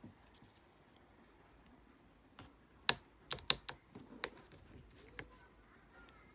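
Slime being pressed and handled, giving a handful of sharp clicking pops, bunched in the middle.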